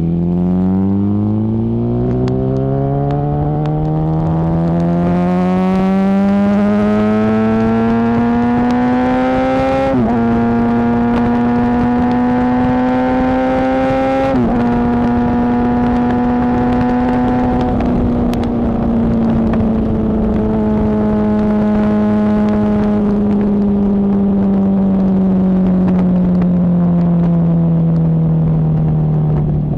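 2008 Yamaha R1 inline-four engine through a Toce T-Slash slip-on exhaust with an Akrapovic cat-delete Y-pipe, heard onboard: it accelerates with the pitch climbing, dips quickly at two upshifts about ten and fourteen seconds in, then holds speed and eases off with the pitch slowly falling.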